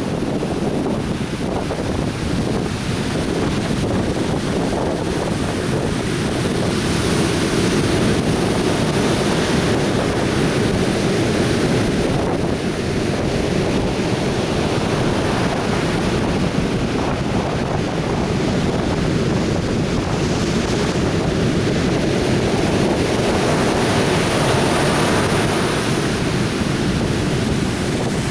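Atlantic Ocean surf breaking and washing up a beach: a continuous rushing roar, deepest in the low end, that swells louder at times as waves come in.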